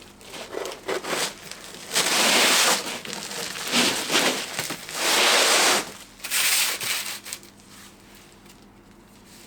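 Roll of bitumen shed-roofing felt being unrolled and handled, crackling and rustling in several loud surges that die down about seven seconds in.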